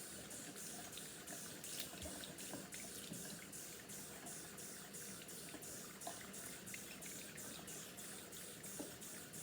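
Water running steadily from a tap into a sink as a metal straw is rinsed, with a few light clicks.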